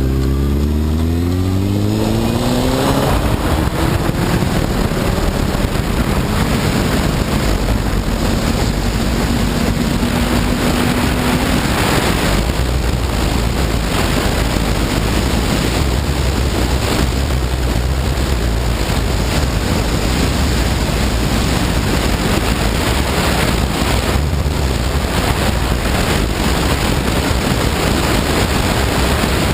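Honda CBR954RR sport bike's inline-four engine rising in pitch as it accelerates over the first few seconds. After that, steady heavy wind rush on the microphone at speed covers most of the engine.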